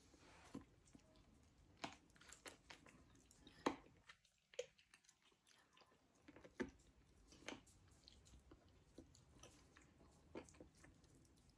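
Faint chewing and mouth sounds of someone eating a chicken wing picked apart by hand, with scattered short sharp clicks.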